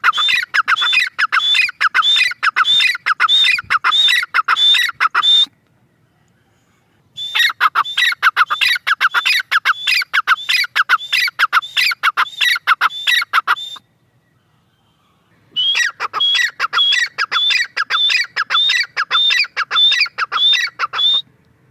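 Grey francolin (teetar) calling: three bouts of rapid, repeated harsh squawking notes, each lasting about six seconds, separated by short silences.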